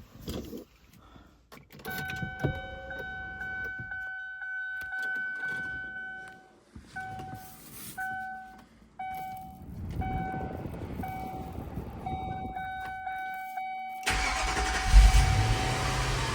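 Ford Thunderbird cold start after a week of sitting: a few clicks, then a steady electronic warning tone that cuts in and out, then near the end the engine cranks, catches with a loud flare and settles into a low rumble.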